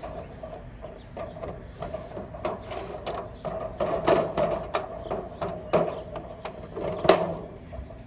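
Irregular taps and rustles of hands shaking dry BBQ rub onto raw pork steaks and patting it in, with a few louder taps about four and seven seconds in.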